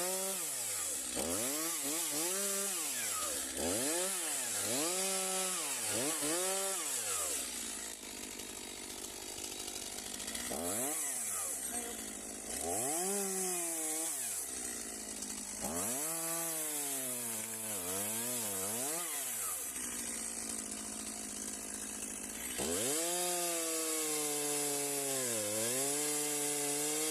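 Two-stroke petrol chainsaw limbing a felled tree, revving up and sagging again and again as it cuts through branch after branch. It drops back to a steady lower speed briefly about eight seconds in and again about twenty seconds in, and near the end makes one longer cut where the pitch dips in the middle.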